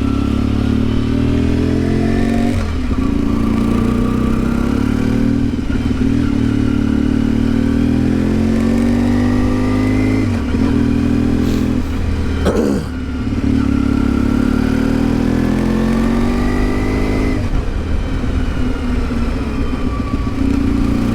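1992 Yamaha XTZ 750 Super Ténéré's parallel-twin engine under way, its revs rising and falling several times as it pulls along a mountain road, with a brief clatter about two thirds of the way in.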